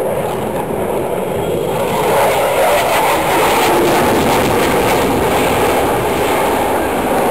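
Military jet engine noise: a jet flying past, a loud rushing roar that swells about two seconds in and then holds steady.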